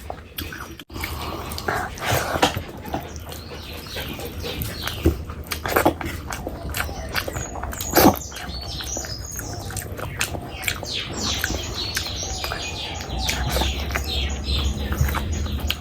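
Close-miked chewing and wet mouth sounds of someone eating fish curry and rice: a dense run of small clicks and smacks, with a few louder smacks about six and eight seconds in.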